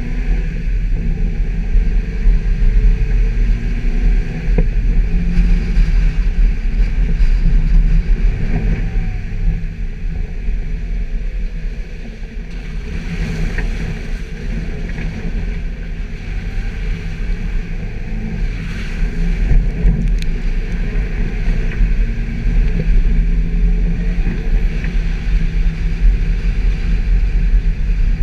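Suzuki Jimny's engine running while driving off-road, a steady low rumble that eases off for a few seconds around twelve seconds in.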